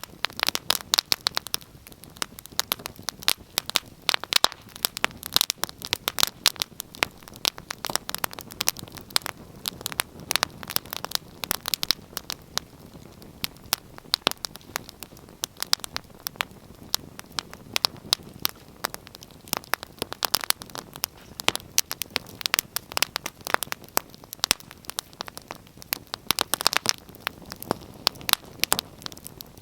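Wood fire burning in a fireplace, crackling and popping with many irregular sharp snaps over a soft low rush of flame.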